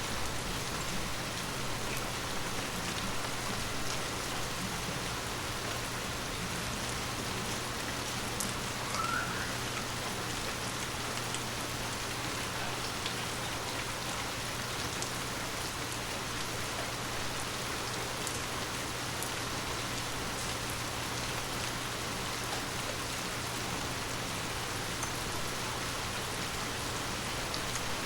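Steady rain falling on forest leaves: an even patter of drops with scattered small ticks. A brief rising chirp comes about nine seconds in.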